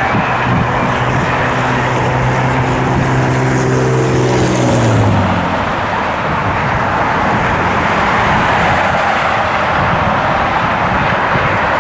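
A road vehicle passes close by: its engine hum holds steady, then drops in pitch with a brief tyre hiss about five seconds in as it goes past. A steady rush of wind and traffic noise runs underneath.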